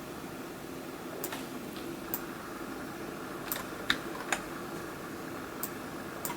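About seven sharp, irregularly spaced clicks of a computer mouse and keyboard being worked, over a steady low hum from a computer fan.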